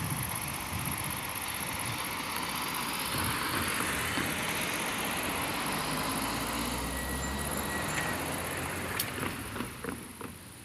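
A road vehicle driving past over the level crossing, its noise swelling and fading, with a few sharp clicks near the end.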